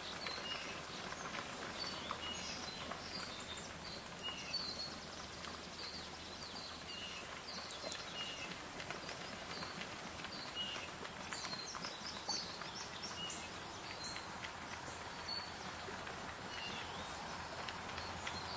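Wetland ambience: small birds chirping in short, scattered notes over a steady hiss, with one brief louder click about twelve seconds in.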